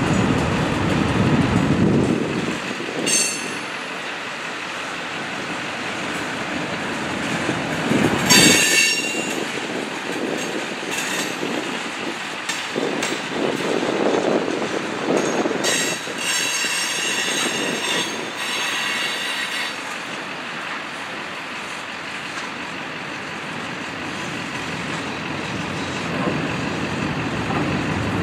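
Freight train rolling past: hopper, tank and gondola cars rumbling and clacking over the rails. Metal wheel squeal rings out at times: briefly about 3 seconds in, louder around 8 seconds, and for a few seconds from about 16 to 19 seconds.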